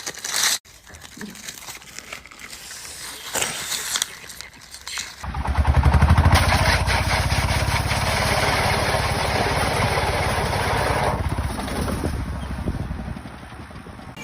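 A machine's motor starts about five seconds in, runs steadily with a fast, even pulsing for about six seconds, then dies away; faint crackling before it.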